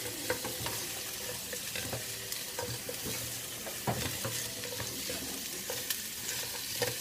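Chicken pieces frying in a non-stick wok, sizzling steadily as a silicone spatula stirs and turns them, with scattered light clicks and scrapes of the spatula against the pan.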